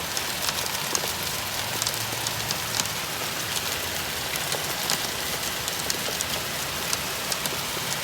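Hail falling with rain: a steady patter dotted with many sharp ticks of hailstones striking.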